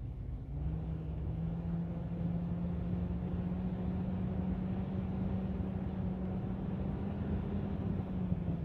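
Go-kart engine running at a steady speed, its hum stepping up in pitch about half a second in and then holding steady.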